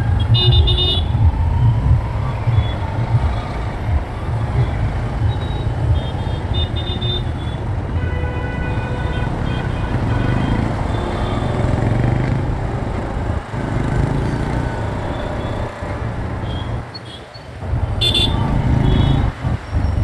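Riding a motorcycle through city traffic: a steady low rumble of engine and wind, with vehicle horns honking several times, near the start, in the middle and again near the end.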